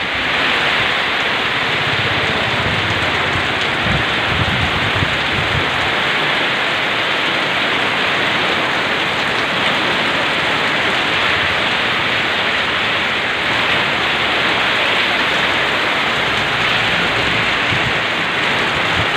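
Heavy rain pouring down steadily, a loud continuous hiss of rain on the street and roofs.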